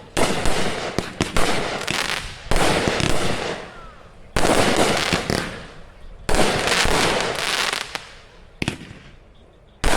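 Crackle-effect firework cakes firing: each shot breaks into a dense crackling that fades over a second or two, with a new burst about every one to two seconds.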